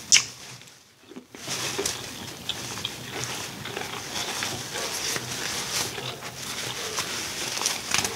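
Close-miked chewing and lip-smacking of a person eating, wet mouth noises with small scattered clicks, after a sharp click at the start and a short quiet moment about a second in.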